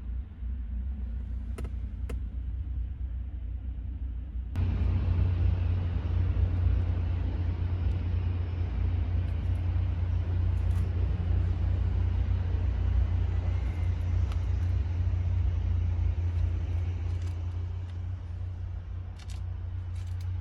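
Honda Accord engine running with a steady low rumble, growing suddenly louder and fuller about four and a half seconds in, then holding steady.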